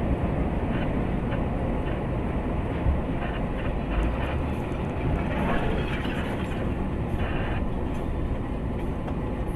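Steady rumble and running noise of a moving vehicle, with faint irregular knocks.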